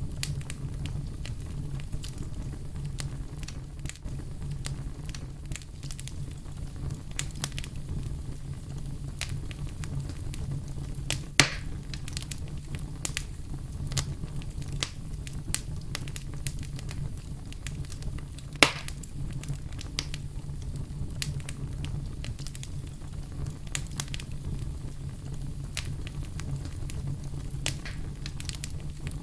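Fireplace fire crackling steadily: a low rumble of flame with many small pops throughout, and two sharp, louder pops, one at about 11 seconds and another at about 19.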